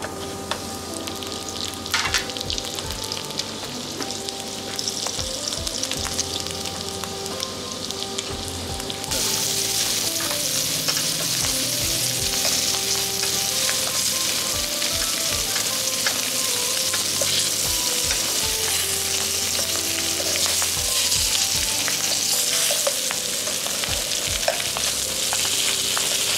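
Floured salmon chunks frying in oil in a non-stick frying pan: a steady sizzle that gets louder about nine seconds in. A few knocks early on as the pieces go into the pan from the tray.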